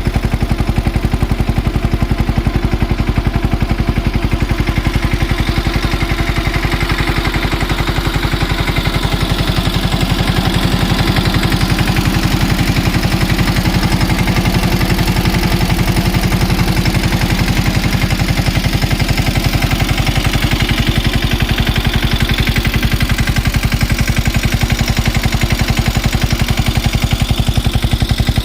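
Mahindra Yuvraj tractor's single-cylinder diesel engine running steadily while driving a PTO water pump, with a continuous loud clatter of firing pulses.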